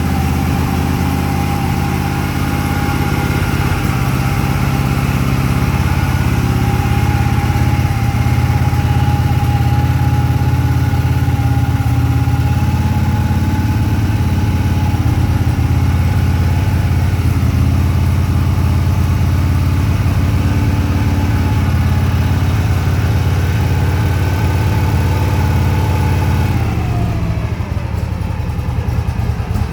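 1982 Harley-Davidson FLHP's shovelhead V-twin running at a fast idle while warming up from a cold start on the choke. About 27 seconds in, the engine speed drops and it settles to a slower idle.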